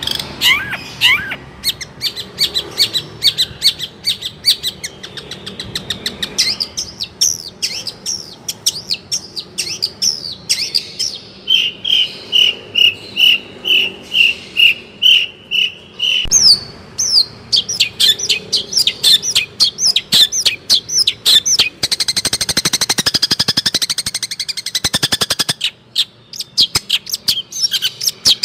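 Long-tailed shrike (cendet) singing a fast, varied song of quick chirps and whistled notes. Near the middle it gives a run of about ten even notes at roughly two a second, and later a few seconds of rapid high trilling.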